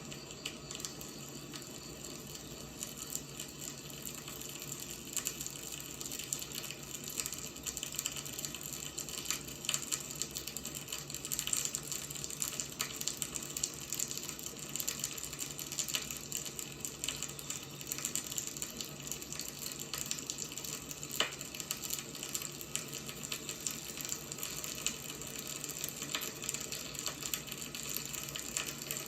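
Wood fire burning, crackling steadily with many small pops and snaps over a soft hiss, and one slightly sharper snap about two-thirds of the way in.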